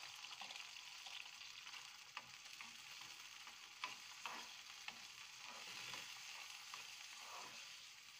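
Sweet corn and chopped onion sizzling in hot oil in a frying pan while a steel spoon stirs them, with a few sharp taps of the spoon against the pan.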